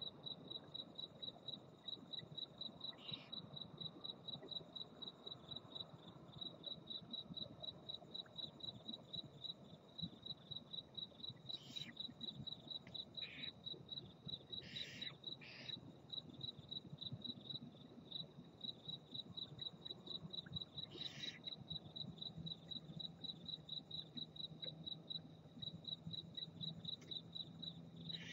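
A cricket chirping steadily, a high pulsed trill at about three chirps a second. A few short hissing bursts break in, near 3 seconds, in a cluster around 12 to 16 seconds, and near 21 seconds.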